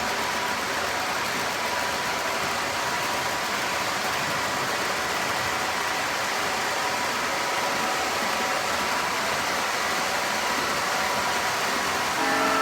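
Model train running along its track: a steady rushing, whirring noise. A whistle with several steady tones sounds right at the end.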